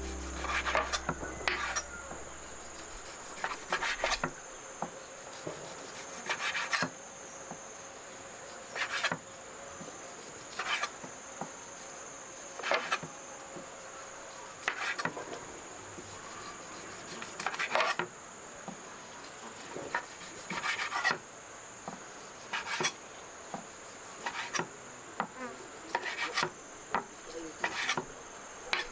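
Steady high-pitched drone of insects, with short scraping or rubbing strokes repeating every second or two.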